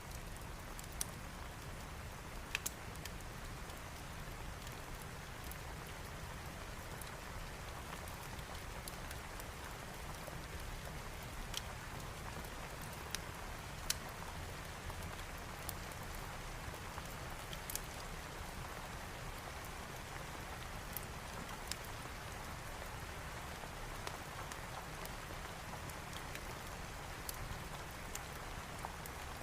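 Steady rain falling on a surface, with scattered single sharp pops of a crackling wood fire.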